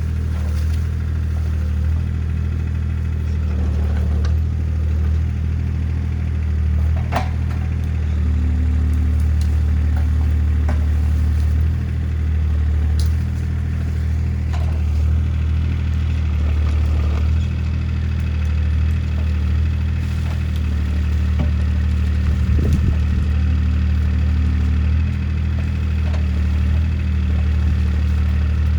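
Diesel engine of a CAT 303C CR mini excavator running steadily at a constant speed, with a few scattered sharp clicks and clatter over it.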